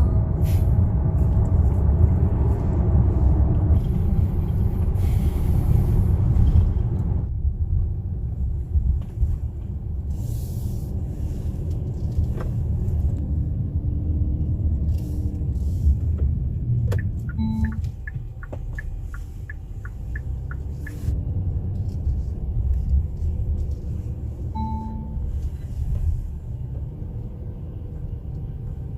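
Steady low rumble of a car driving slowly, with two short electronic beeps, one past the middle and one near the end, and a brief run of quick even ticks after the first beep.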